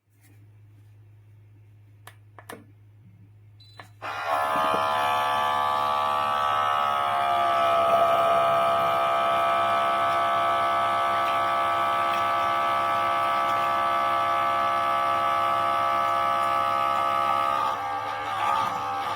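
Wacaco Pixapresso portable espresso machine's pump starting about four seconds in and buzzing steadily through the extraction, its pitch settling a little lower as pressure builds, then faltering near the end. Before it, a low hum and a few light clicks.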